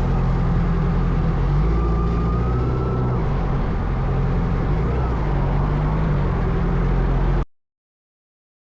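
Motorcycle engine running steadily, with a faint thin whine above its low drone. The sound cuts off abruptly about seven and a half seconds in.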